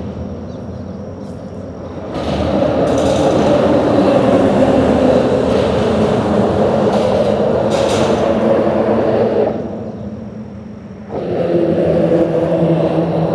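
Vehicle traffic rumbling over a bridge: a steady low hum and rumble that swells about two seconds in, eases off partway through and builds again near the end.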